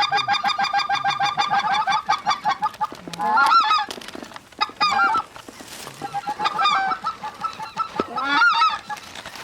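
Geese honking: a fast, even run of short clucking honks for about the first three seconds, then single and paired longer honks every second or two.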